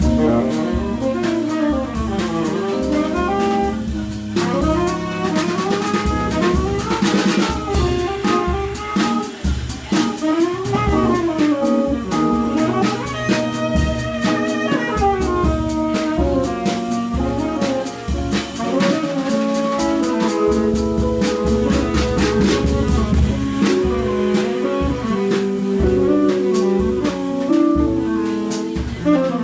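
Live jazz trio of tenor saxophone, electric guitar and drum kit playing; the tenor sax plays quick melodic runs over guitar chords and busy drums and cymbals.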